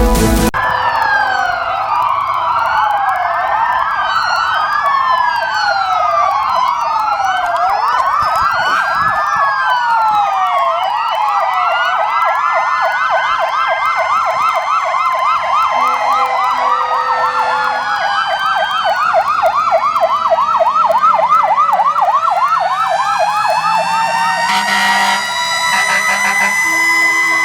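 Several fire truck sirens sounding at once, overlapping electronic sirens switching between a slow rising-and-falling wail and a fast yelp.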